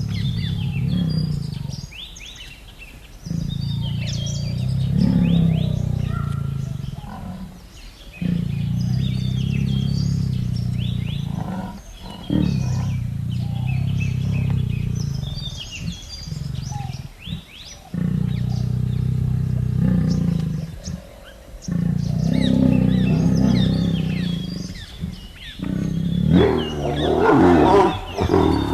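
A big cat making long, low roaring growls, one after another with short breaks between them, while birds chirp faintly in the background.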